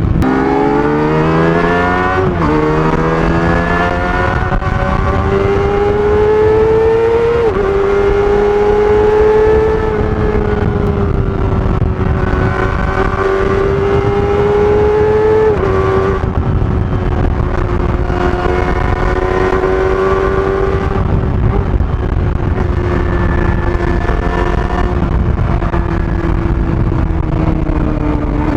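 Kawasaki ZX-25R's 250 cc inline-four on its stock exhaust, accelerating through the gears. The pitch climbs and drops sharply at upshifts about two, seven and a half and fifteen and a half seconds in, then holds at a fairly steady cruise.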